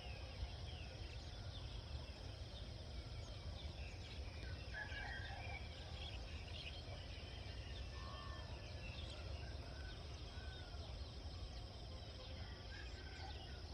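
Countryside ambience: birds chirping with many short calls scattered throughout, over a steady high-pitched insect drone and a low rumble.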